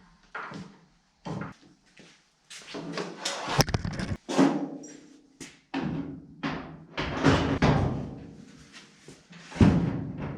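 Hammer blows on sheet steel: a string of irregular strikes with a short metallic ring, the loudest near the end, typical of hammer-and-dolly work knocking out dents in a door panel.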